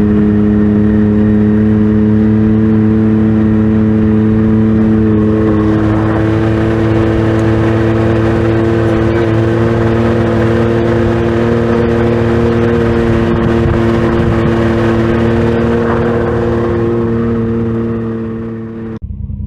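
Side-by-side UTV engine running steadily while driving, a constant drone that cuts off abruptly near the end.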